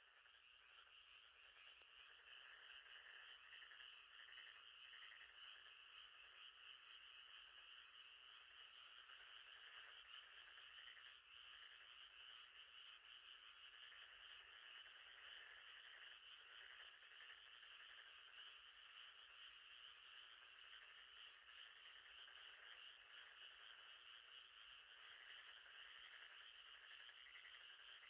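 Faint, steady night chorus of frogs calling from a lakeside.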